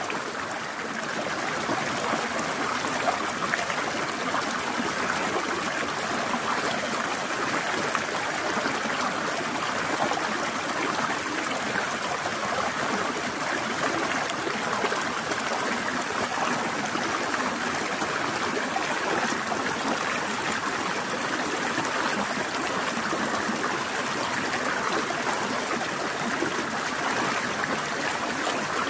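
Forest stream trickling: a steady, even rush of flowing water that runs on without a break.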